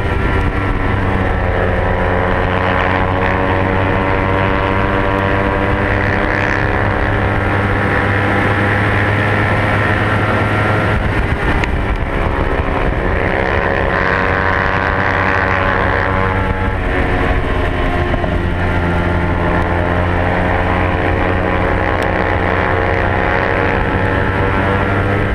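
300cc race motorcycle engine held at high revs on a track lap, its pitch sinking and climbing as the bike shifts gears and works through corners, with clear changes about 11 and 17 seconds in.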